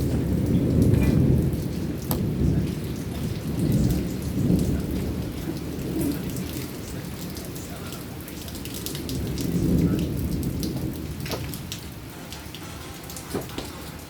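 Heavy rain falling with a thunderstorm overhead. Thunder rumbles in several rolling swells and dies down toward the end, while scattered raindrops tick sharply over the steady hiss of the rain.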